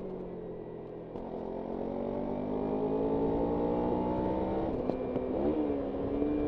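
Kawasaki Ninja 300's parallel-twin engine easing off, then revving up steadily through a gear for about four seconds. About five seconds in the revs drop sharply with a gear change, then hold steady, with wind noise throughout.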